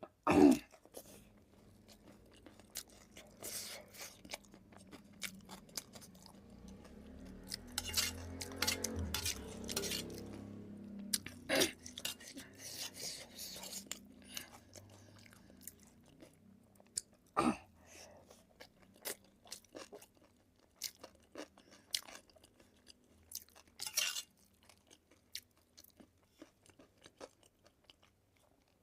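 Close-up eating sounds of a person chewing food, with scattered crunches, wet mouth clicks and smacks, and one louder sharp mouth sound just after the start.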